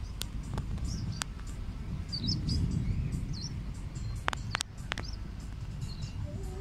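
Short high bird chirps repeating every half second or so over a low steady rumble, with a few sharp clicks.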